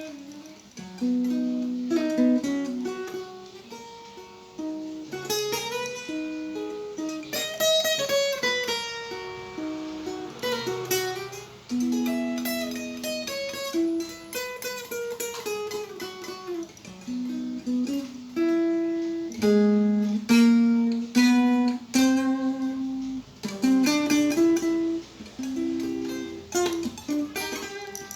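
Acoustic guitar played fingerstyle: a slow melody of picked notes over picked bass notes, each note ringing out and fading, with a few notes sliding in pitch midway.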